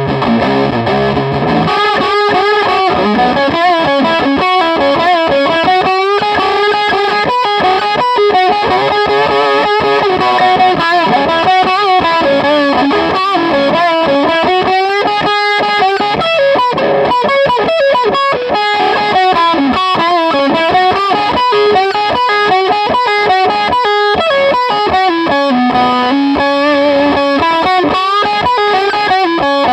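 Electric guitar played through a distortion pedal: a single-note lead melody of held notes with string bends and vibrato.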